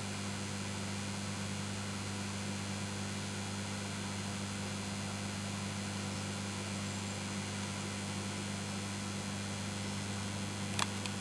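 Microwave oven running, giving a steady mains hum, with a couple of faint clicks near the end.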